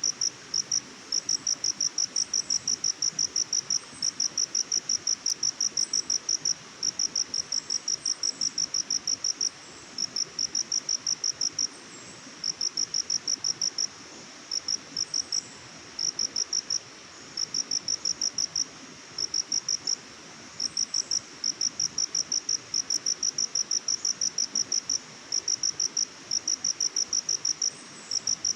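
Crickets chirping: rapid high-pitched pulses in runs of a second or two, broken by short pauses, over a faint steady background hiss.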